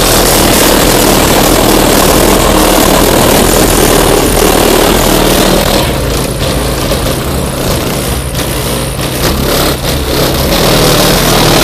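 Custom van's car-stereo subwoofers playing bass at extreme volume, overloading the microphone into a distorted, steady rumble. It eases slightly about halfway through.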